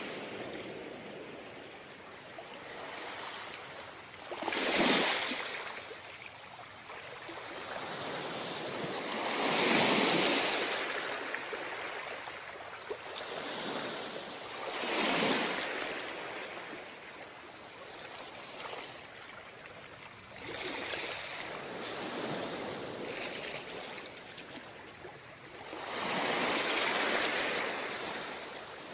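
Ocean surf on a sand beach: waves break and wash up the shore about every five seconds, each surge swelling and fading over a second or two, with a steady rush of water between them.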